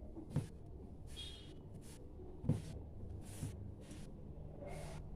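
Faint handling sounds of a paneer and spice mixture being mixed and broken up by hand in a bowl: a few soft knocks, the clearest about half a second in and again near the middle, over a low steady hum.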